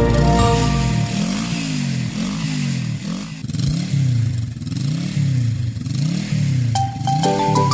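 Cartoon police siren sound effect, a low wail sweeping up and down in pitch about once every 0.8 s. Music fades out about a second in and returns near the end.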